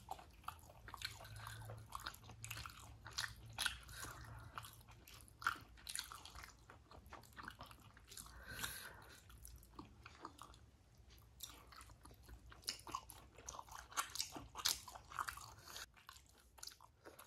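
A person chewing and biting food: a run of short, irregular mouth clicks and crunches, several a second.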